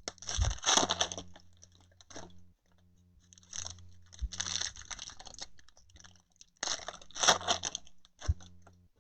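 2020 Donruss Optic baseball card pack wrappers crinkling and tearing open in three bursts, with a few soft thumps as packs and cards are handled.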